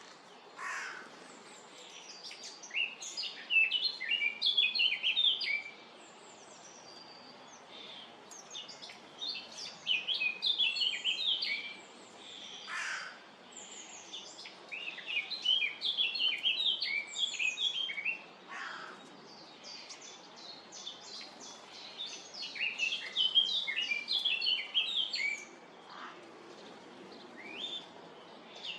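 Starlings calling at a feeding spot: bursts of rapid high chirps and chatter lasting a few seconds each, with short pauses between them. A few longer calls sweep downward in pitch.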